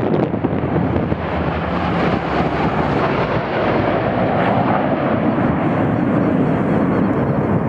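Fixed-wing aircraft flying past, its engine noise a loud, steady rush that swells slightly around the middle.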